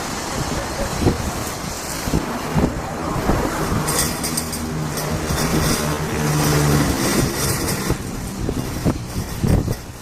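BeechJet 400A's twin turbofan engines running at power, a steady jet noise that builds to its strongest about four to seven seconds in, with wind buffeting the microphone.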